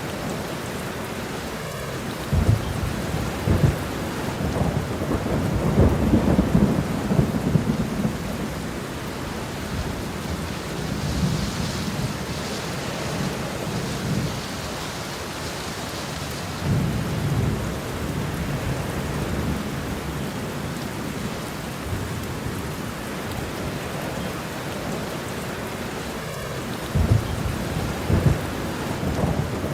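Steady rain falling, with thunder rumbling low several times: a few seconds in, again past the middle, and near the end.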